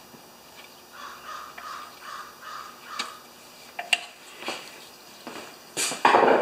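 A bird calling, a run of about five short calls about half a second apart, then a couple of sharp clicks. A brief loud noise near the end is the loudest sound.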